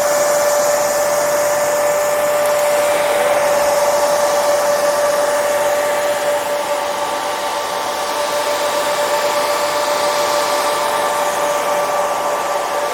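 Hair dryer running steadily: an even rush of blown air with a constant motor whine underneath.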